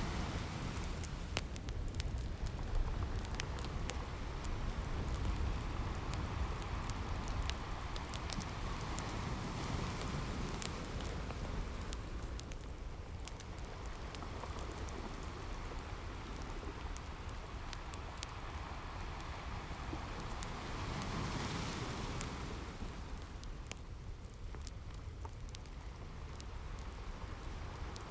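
Ocean waves washing in slow swells under the constant sharp pops and crackles of a wood fire.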